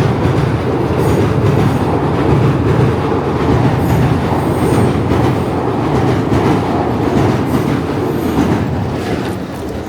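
A passing train, a loud, steady rumble and clatter of wheels on rails that begins to fade near the end.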